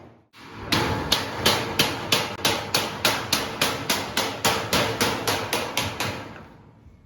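Hammer blows on sheet-metal ducting: a rapid, even series of sharp metallic strikes, about three a second, that starts just under a second in and fades away about six seconds in.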